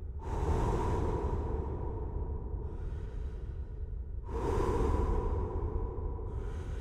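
A rider's breathing into a helmet microphone: two slow exhalations about four seconds apart, over a steady low rumble of the moving motorcycle.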